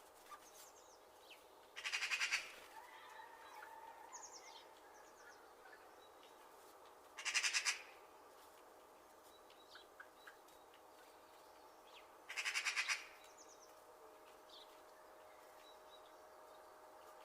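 Birds calling: three loud, harsh rattling calls about five seconds apart, each under a second long, with faint high chirps between them over a faint steady tone.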